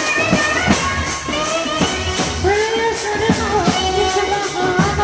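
Indian band music: a bending melody line over a steady drum beat, about two to three strikes a second.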